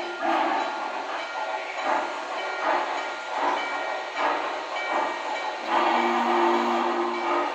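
Sound-equipped HO-scale model steam locomotive playing its decoder's steam sounds through its small onboard speaker: steady exhaust chuffs about every 0.8 s with hiss, and a held whistle chord sounding near the end.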